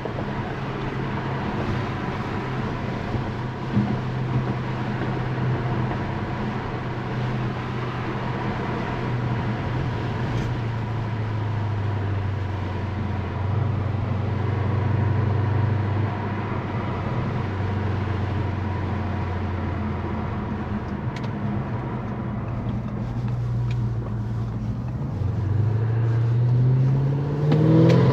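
Tuned Audi S6 driving on a snowy road, its engine holding a steady low note over tyre and road noise. The note sags a little midway, then rises over the last couple of seconds as the car accelerates.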